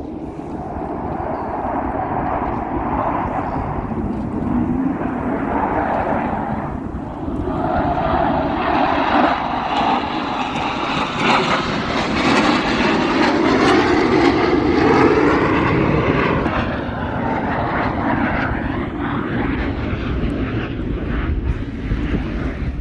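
Airshow aircraft flying past with a loud, steady roar that builds to a peak around the middle and eases off a little toward the end, its tone sweeping as it passes.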